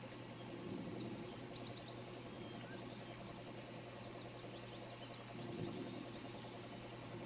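Steady rain hiss with birds giving short, quick chirps in short runs here and there, over a low steady hum; a soft low rumble swells briefly about a second in and again past the middle.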